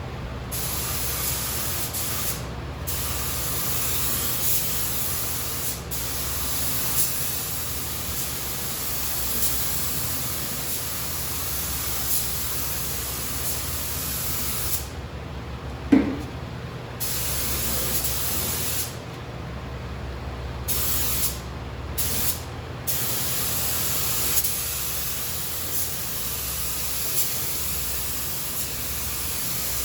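Paint spray gun hissing as it sprays a truck body, in long passes broken by several short pauses where the trigger is let off. A steady low hum of shop fans runs underneath, and a single sharp knock sounds about 16 seconds in during one of the pauses.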